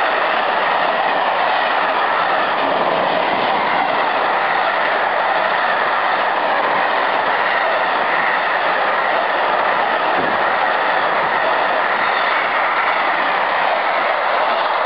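Freight train of tank wagons rolling past at speed, a steady, loud noise of steel wheels running on the rails.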